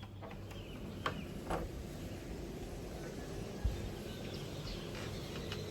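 Steady low background hum with a few soft clicks, and a single dull thump about three and a half seconds in.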